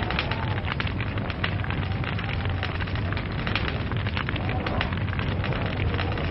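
Burning log fire crackling, with dense, irregular pops and snaps over a steady low rumble.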